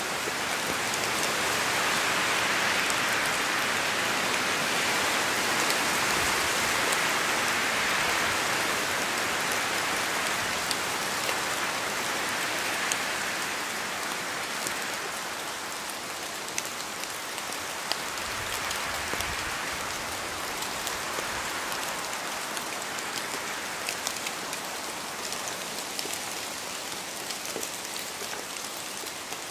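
Steady rain falling on a surface, with individual drops ticking sharply here and there. It eases a little about halfway through.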